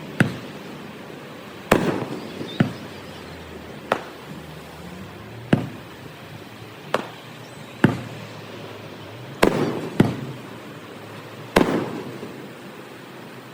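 Fireworks shells bursting in the sky, about ten sharp bangs at irregular intervals, each trailing off in a short rumble, with the recording played at double speed.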